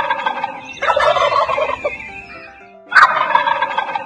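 Turkey gobbling: three rapid rattling gobbles, one at the start, one about a second in, and one near the end.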